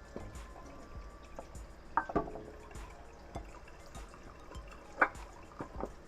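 Cooking water dripping and trickling off pasta as it drains, with a few sharp clinks of cookware, the loudest about five seconds in.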